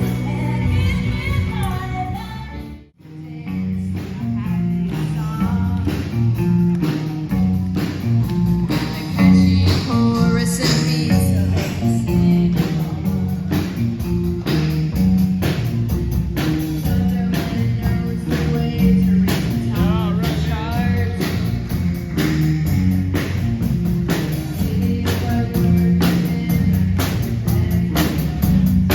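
Live rock band music: singing over guitar with a steady drum beat. The sound drops out briefly about three seconds in, then the song carries on at full level.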